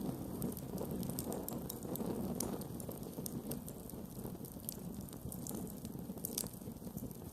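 Campfire burning: a steady low rush of flames under frequent small crackles and pops from the burning wood, with one sharper pop about six seconds in.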